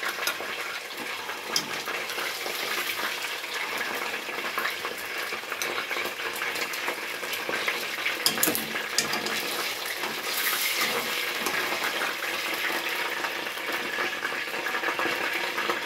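Chicken pieces frying in hot oil and ghee in a pot: a steady sizzle, broken by a few sharp clicks of metal tongs against the pot as the pieces are lifted out.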